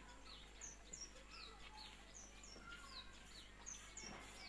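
Faint bird chirping: short, high, downward-sliding notes repeated about twice a second, over quiet outdoor background noise.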